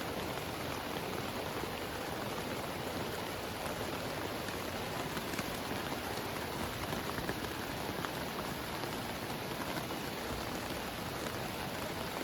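Heavy rain falling steadily, with many small sharp drop impacts scattered through it.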